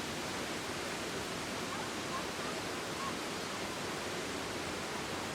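Looking Glass Falls, a waterfall, pouring steadily: an even, unbroken rush of falling water.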